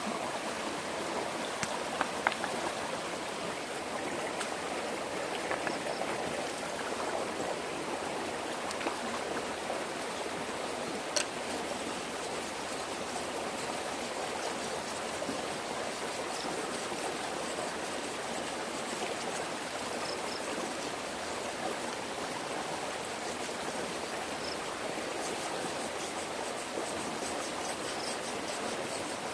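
Steady rush of a flowing stream, with a couple of brief sharp clicks, one about two seconds in and another about eleven seconds in.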